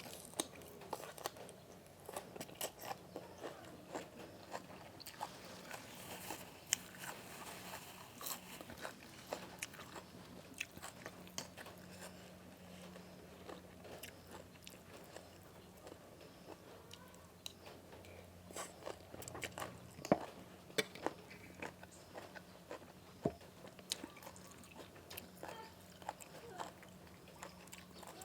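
A person chewing and biting crunchy food close to the microphone, with many irregular crunches and small clicks.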